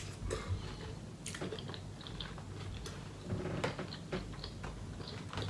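A person biting and chewing seafood-boil food, with scattered short clicks and small mouth sounds.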